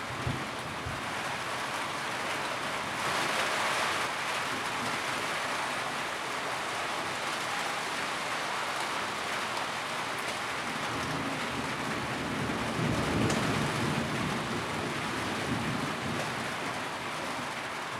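Steady heavy rain drumming on a tin roof, with a low rumble swelling up about two-thirds of the way through.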